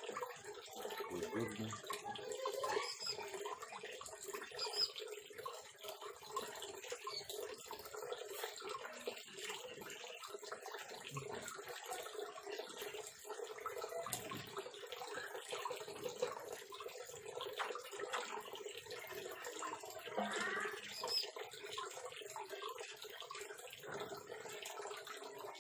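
A steady hiss, with a few faint, short high chirps from bar-winged prinias (ciblek) now and then.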